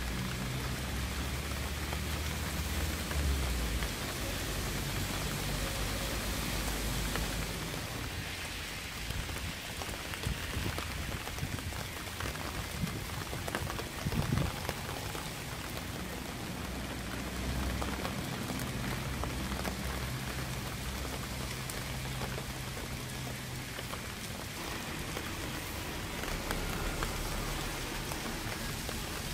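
Steady rain falling on surfaces, with a few sharper, louder drop hits close by about halfway through. A low rumble sits underneath for the first several seconds and again a little past the middle.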